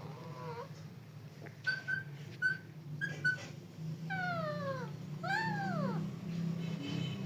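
A parrot calling: a short falling note, then a run of short clipped chirps, then two long calls that slide down in pitch.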